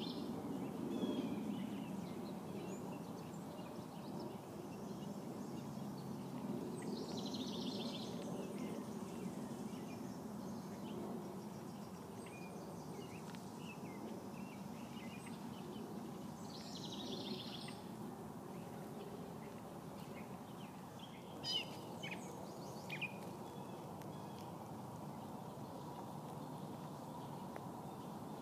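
Outdoor garden ambience: a steady low background rumble, with a bird repeating a short rapid high trill about every nine seconds and other faint chirps between. Two sharp clicks come about three quarters of the way through.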